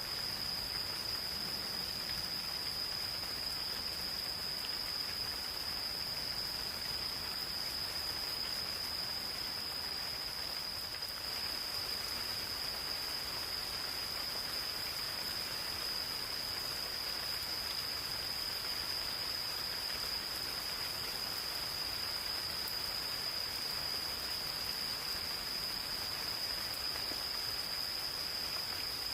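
Gentle rain falling steadily on a forest, with insects giving one continuous, unbroken high-pitched trill that stays level throughout and stands out above the rain.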